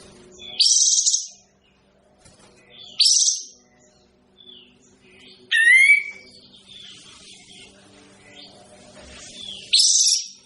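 Kapas tembak bird calling: four loud, short, sharp high calls spaced a few seconds apart, the third a quick falling whistle, with faint chatter between them. The keeper finds this voice not pleasant to hear. A faint low hum runs underneath.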